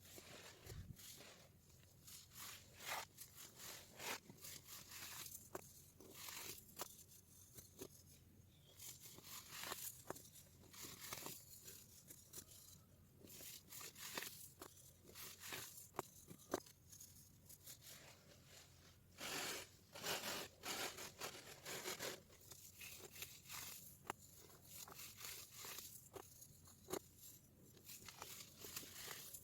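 Baking soda being crushed: irregular crisp crunches and crackles, with a denser run of crunching about two-thirds of the way through.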